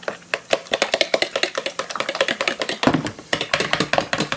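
Fork beating eggs in a bowl: rapid, even clicking of the utensil against the bowl, several strokes a second.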